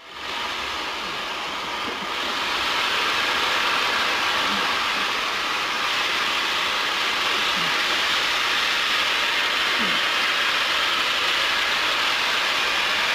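Steam locomotive letting off steam: a loud, steady hiss that cuts in suddenly and grows a little louder about two seconds in.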